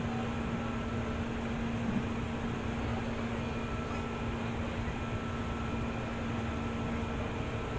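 Steady hum inside a JR 205 series (600 subseries) electric train car: an even rumble with a constant low tone through it.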